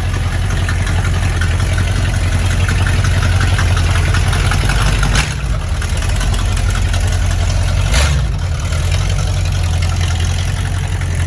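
Car engines idling with a steady low rumble as cars move off. Two sharp knocks come about five and eight seconds in.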